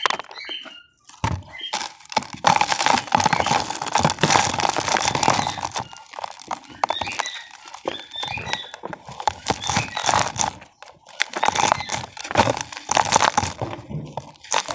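Damp cement crumbling, crunching and crackling in irregular bursts of many small cracks, with short pauses between handfuls.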